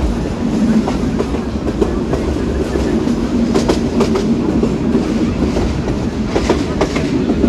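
Train running on the rails: a steady low rumble with wheels clacking over rail joints every so often.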